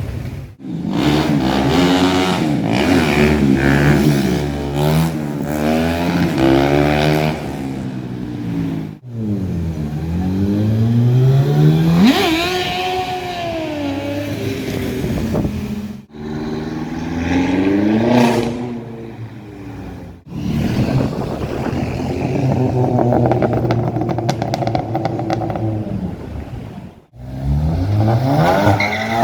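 Performance car engines accelerating hard, revving up through the gears and rising and falling in pitch as they pass. There are several separate passes, each breaking off abruptly.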